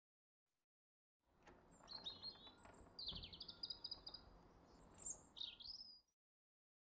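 Birdsong: a run of high chirps and quick trills over a faint hiss. It starts about a second in and cuts off about a second before the end.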